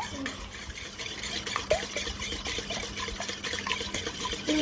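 Raw eggs being whisked by hand in a bowl: a continuous wet sloshing with quick, irregular clicks of the whisk against the bowl.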